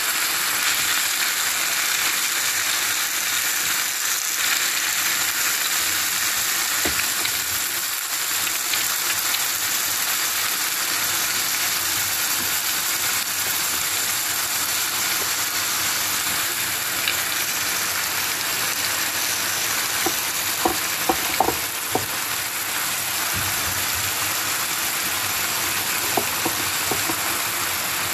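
Vegetables and noodles stir-frying in a hot non-stick pan: a steady sizzling hiss. A few sharp knocks of the stirring utensil against the pan come about three quarters of the way through.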